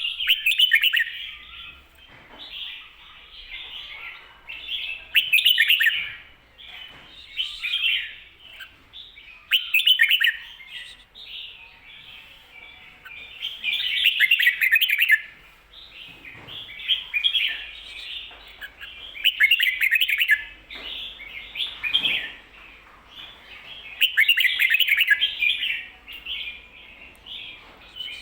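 Red-whiskered bulbul singing its doubled 'ko-ta-ra' song, a phrase that Thai keepers play to teach young birds. Loud, quick phrases come every two to four seconds, with softer chatter in between.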